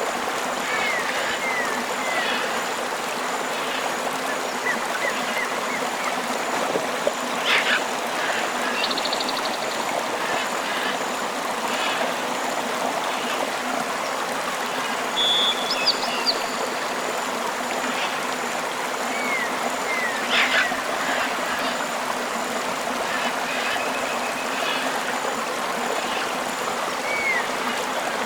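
River water flowing steadily, with birds calling over it: short chirps throughout and a louder sharp call about a quarter of the way in and again about two-thirds through.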